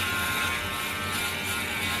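Electric razor or beard trimmer running with a steady buzz while shaving a face.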